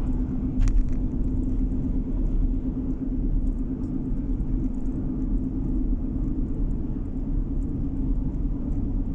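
Steady road and engine rumble of a car driving, heard from inside the cabin, with a constant low hum. A single brief click sounds just under a second in.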